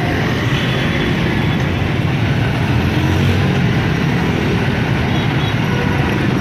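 Dense street traffic of many motorbikes, their small engines running together in a steady din.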